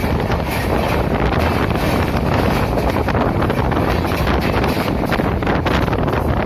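Passenger train running, heard from aboard with the window or door open: a steady rush of wind buffeting the microphone over the rumble of the train.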